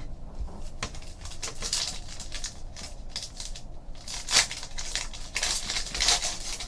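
Foil trading card pack wrappers crinkling and cards rustling as a pack is opened and handled, with irregular crackling strokes and a louder crinkle about four and a half seconds in.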